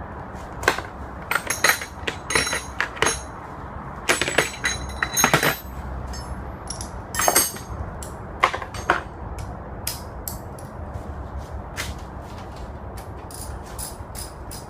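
Metal hand tools clanking and clinking against scooter parts during dismantling: a dozen or so irregular sharp knocks with a ringing edge, then a quicker, even run of lighter clicks near the end.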